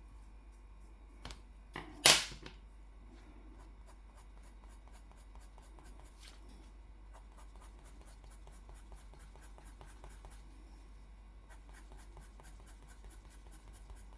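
A drawing pen or marker working on paper in quick, evenly spaced strokes, about five a second, through the second half. About two seconds in there is one sharp knock, the loudest sound.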